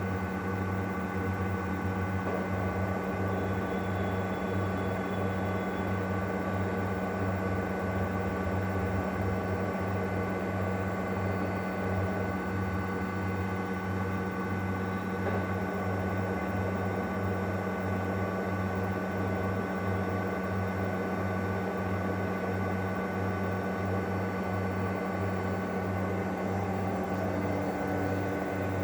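Panasonic fully automatic washing machine on its spin cycle: a steady motor hum with a fast, even low throb and a few steady whining tones.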